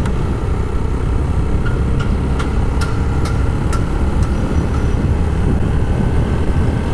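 Steady engine and road rumble of a motorcycle on the move, with a few short clicks about two to four seconds in.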